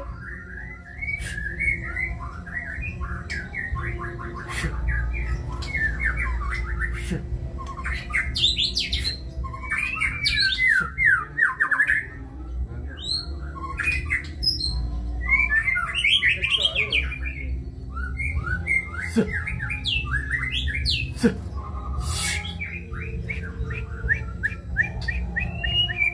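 White-rumped shama (murai batu) singing a long, varied song of rapid chattering runs and clear sweeping whistles, a song full of mimicked calls.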